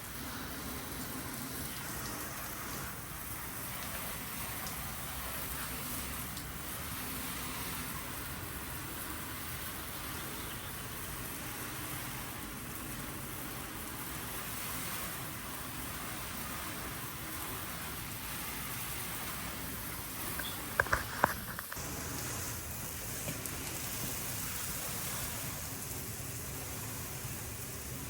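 Steady hiss of water spraying and splashing on a window during washing, with a few sharp clicks about three quarters of the way through.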